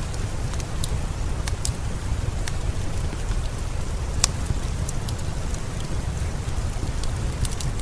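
Steady rain with a heavy low rumble, mixed with sparse sharp crackles of a wood fire, one louder pop about four seconds in.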